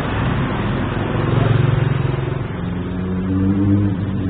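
A motor vehicle's engine running close by in traffic, swelling louder about a second and a half in and again near the end.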